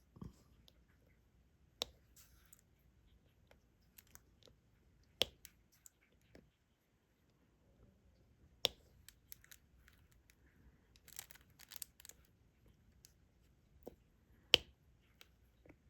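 Diamond painting drill pen setting resin drills onto the sticky canvas: sharp single clicks every few seconds, four of them loud, between fainter ticks, with a brief run of light rattly clicks about eleven seconds in.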